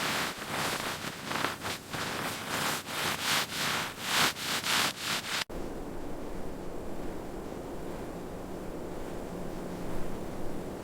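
Rhythmic crunching and scraping in snow, about two strokes a second, which cuts off abruptly about five seconds in. A steady hiss follows, like wind.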